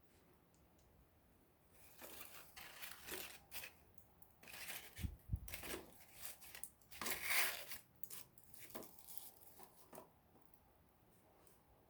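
Small wood campfire burning, with a spell of rustling, crinkling crackle from about two seconds in to about ten seconds in. There is a low thump about five seconds in.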